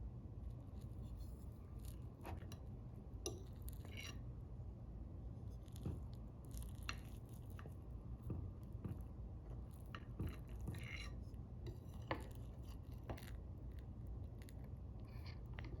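Quiet kitchen handling sounds: scattered light clicks and taps of utensils and dishes over a low steady hum.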